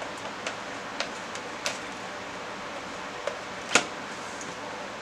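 Sticky homemade slime being mixed, giving a few short, sharp clicks and taps over a steady hiss; the loudest click comes a little before the end.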